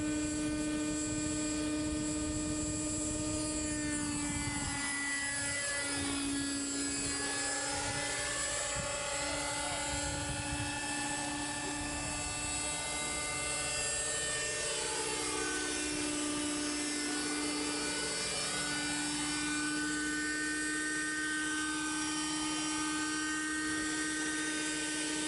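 Raptor 30 RC model helicopter with an MD 500 scale fuselage, its nitro glow engine and rotors whining steadily in flight. The pitch dips slightly about five seconds in and shifts again midway, and the tone sweeps as the model moves about.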